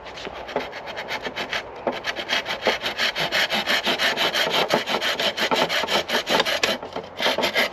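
A hand tool cutting or rasping wood to trim a small amount off the end of a chestnut spindle. It works in quick, even strokes that settle into a steady run about two seconds in.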